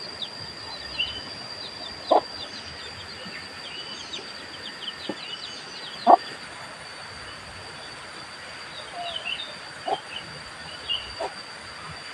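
Forest ambience: a steady high-pitched insect drone with scattered bird chirps, and a few dull knocks a few seconds apart.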